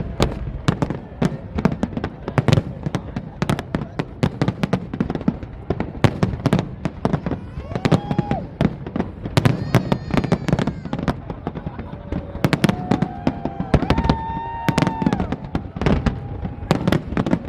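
Fireworks display: a rapid, continuous crackle of bangs and pops, with several held high tones heard over them in the second half.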